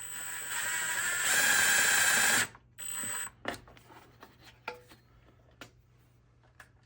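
Cordless drill running under load, driving a long 10-24 screw into a stripped mounting hole on a lawnmower, speeding up and getting louder partway through, then a second short burst. A few light clicks of handling follow.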